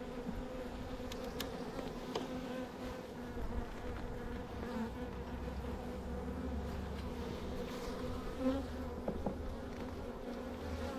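Swarm of honey bees buzzing in a steady hum around the opened hive box, the sound of a defensive colony that is not happy. A few light clicks sound over it.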